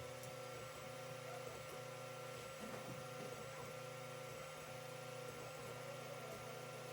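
Creality CR-10 3D printer running as it prints: a steady hum of its fans and stepper motors, with a few fixed tones.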